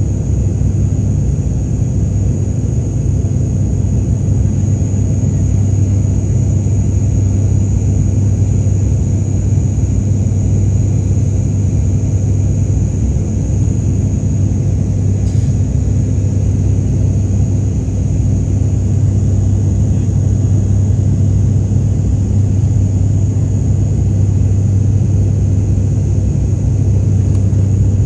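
Steady drone of an airliner in flight heard inside the cabin: a constant low engine hum with a thin high whine above it.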